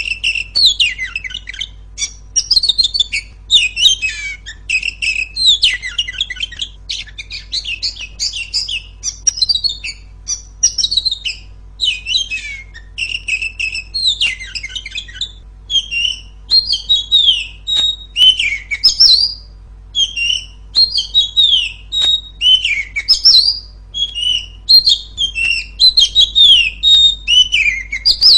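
Female Oriental magpie-robin (kacer) singing loudly, an unbroken string of short chirps, trills and whistled notes.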